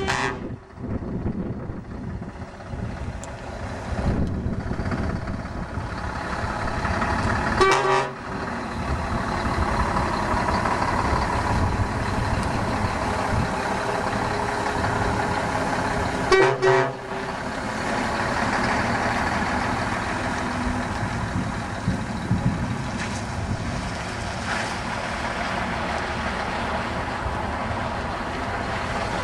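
Scania 470 truck running steadily, its horn sounding three short blasts: one right at the start, one about 8 seconds in and one about 16 seconds in.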